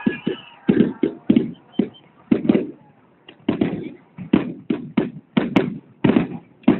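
Fireworks going off in a rapid string of sharp bangs, each with a short echoing tail, about two to three a second, with a brief lull midway.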